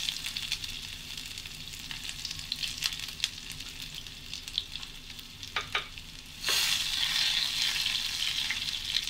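Sliced shallots, curry leaves and green chillies sizzling in hot coconut oil in a frying pan: the tempering for a Kerala curry. A steady sizzle runs throughout with a few sharp pops. It grows louder about six and a half seconds in as the pan is stirred with a wooden spatula.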